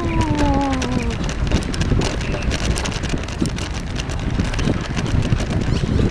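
Wind buffeting the microphone over the noise of a bicycle rolling along a path, with many small rattles and crunches. A voice draws out a falling "oh" during the first second.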